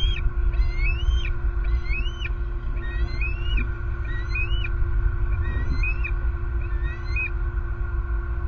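A bird calling a long series of high, rising whistled notes, one to two a second, which stop about seven seconds in. Underneath is a steady low rumble of road traffic and a faint steady hum.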